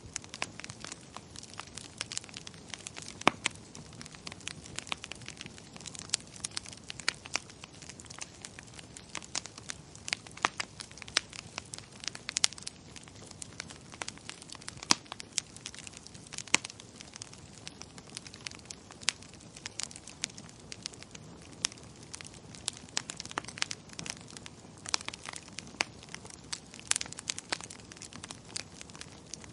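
Wood fire crackling in a fireplace: many sharp, irregular pops and snaps over a soft steady hiss of flame.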